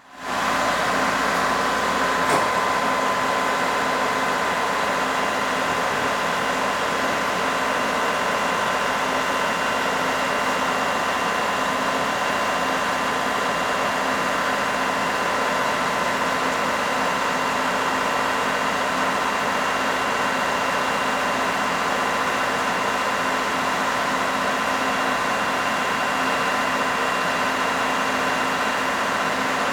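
American Augers MCM2000 auger boring machine's engine running at a steady speed, with one sharp click about two seconds in.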